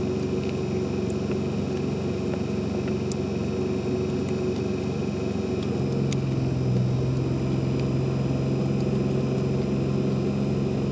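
A steady low engine-like hum that changes tone about six seconds in, with a few faint clicks.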